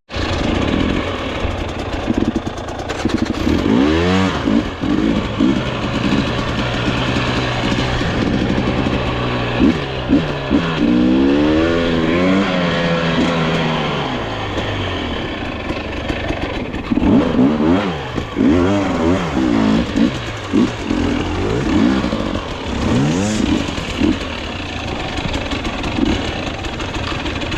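Dirt bike engines revving on a trail ride, their pitch rising and falling repeatedly as the throttle is worked.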